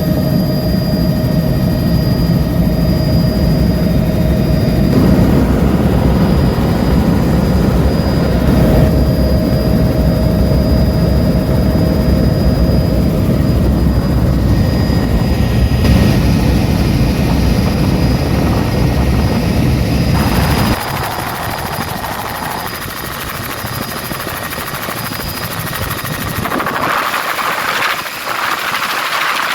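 Helicopter's rotor and turbine engine running steadily and loudly with a deep rumble. About two-thirds of the way through the rumble drops away abruptly, leaving a lighter, higher hiss.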